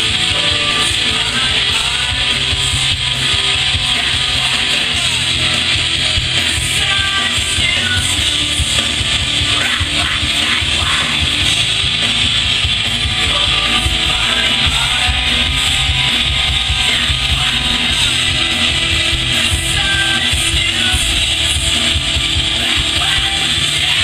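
Rock music with guitar, playing loud and steady through an Aiwa NSX-999 mini hi-fi system.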